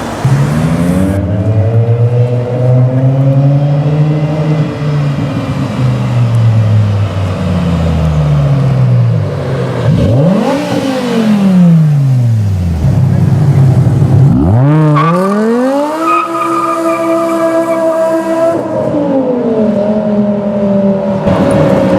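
BMW M5 E60's V10 engine through a Botter aftermarket exhaust, revving hard. The pitch climbs and falls slowly at first, blips up and down about ten seconds in, then climbs sharply and is held high for a few seconds before dropping back.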